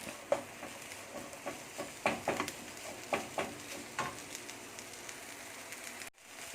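Diced chicken and scrambled egg with green chillies sizzling in a frying pan while a spatula stirs them, scraping and knocking against the pan a dozen or so times in the first two-thirds.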